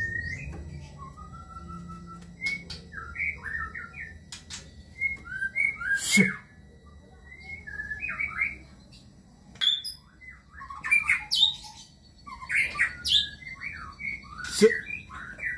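White-rumped shama (murai batu) singing a rapid string of short, varied whistled phrases packed with mimicked notes, with a few loud sharp notes cutting in.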